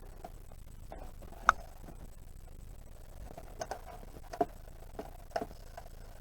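Scattered sharp clicks and knocks of parts being handled while dismantling a portable fridge: one loud click about a second and a half in, then a few smaller taps later on.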